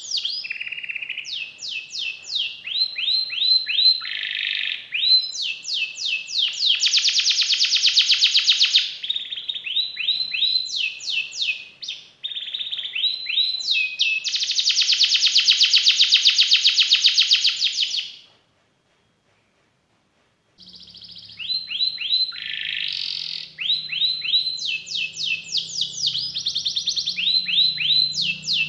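Canary singing a long, varied song: runs of repeated rising whistled notes broken by two long, very fast rolled trills. The song cuts out completely for about two seconds about two-thirds of the way in, then resumes.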